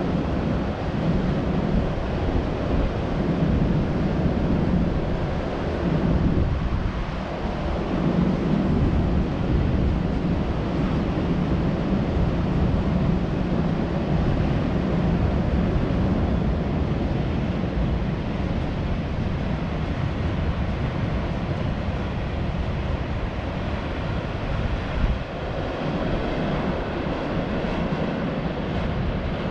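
Steady low rumble of a freight train moving slowly through the station yard, mixed with wind noise on the microphone.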